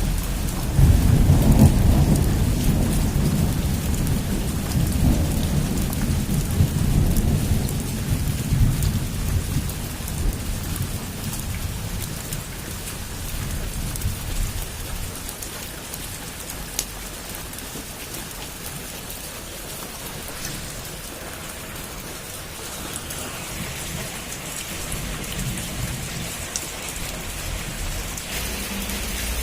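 Heavy rain falling steadily on a roof, with a long roll of thunder that starts about a second in and dies away over the next several seconds.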